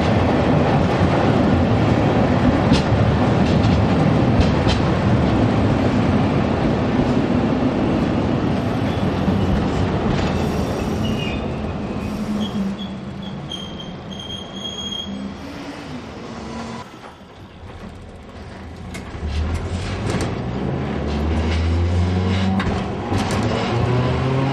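Hiroshima Electric Railway type 550 streetcar with nose-suspended traction motors, running with a heavy rumble over the rails. The rumble fades as it slows almost to a stop, and after about nineteen seconds the motor and gear whine rises in pitch as it accelerates again.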